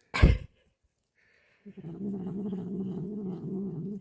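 Cat making a low, drawn-out, slightly wavering vocal sound for about two seconds while eating a treat. A short loud burst of noise comes just after the start.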